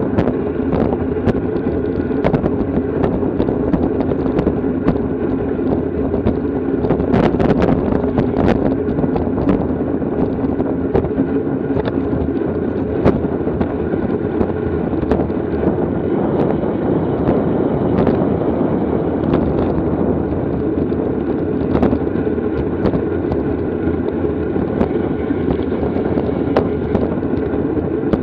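Wind rushing over the microphone of a camera riding in a bicycle race, over a steady low hum from the moving bike. Frequent sharp clicks and rattles come through the noise.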